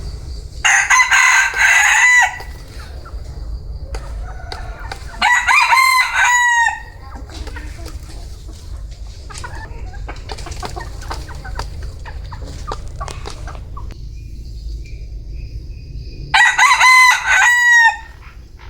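Vietnamese bantam rooster (gà tre) crowing three times, each crow about a second and a half long: near the start, around five seconds in, and near the end. Quieter chicken calls come between the crows, over a steady low rumble.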